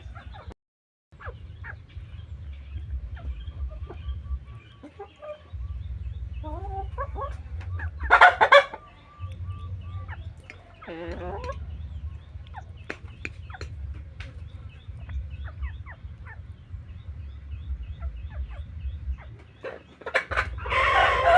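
Village chickens, a rooster and hens, clucking and calling while they feed, with short sharp ticks throughout. There is a loud squawk about eight seconds in, another call around eleven seconds, and a loud, long call near the end.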